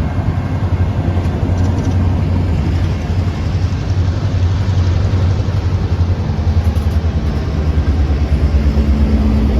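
Diesel freight locomotive engine running close by with a steady low rumble; a slightly higher steady hum joins about six seconds in.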